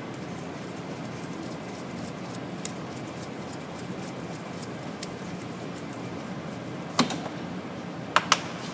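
Wrench and caliper slide pin bolts clinking against metal: a few light clicks, a sharper knock about seven seconds in and two quick clicks near the end, over a steady background hum.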